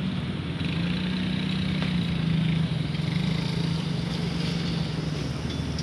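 An engine running steadily, its pitch wavering slightly and dropping near the end, over the hiss of fast-flowing water.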